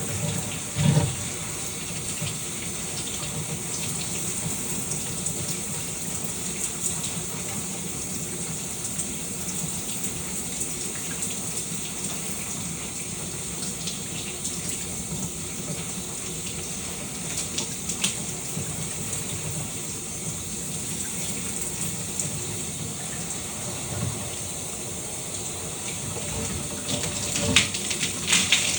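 Shower water running steadily with a constant hiss, broken by a few brief knocks about a second in and near the end.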